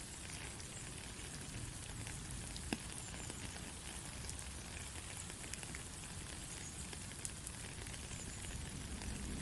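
Steady rain falling, an even hiss with scattered sharp drop ticks, one louder tick nearly three seconds in.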